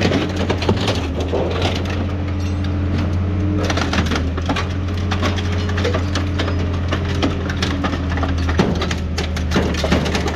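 Scrap crushing machine running: a steady engine and hydraulic hum under irregular crunching and cracking as scrap is crushed.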